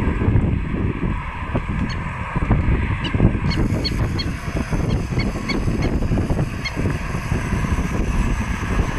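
Jet airliner's engines at takeoff power, a steady, loud, low rumble with a constant higher tone above it.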